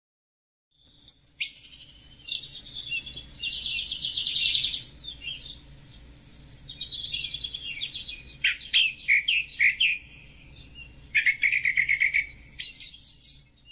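Songbirds chirping and singing in rapid high trills, several calls overlapping, starting about a second in over a faint steady low hum.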